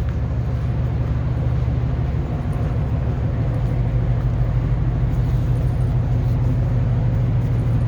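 Steady low engine rumble of street traffic, with a fainter hiss above it.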